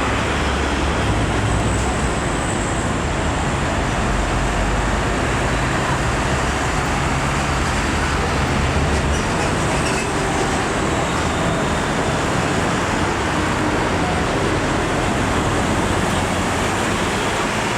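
Road traffic noise: a steady hiss of tyres and road with the low drone of a heavy diesel truck engine, which eases after about nine seconds.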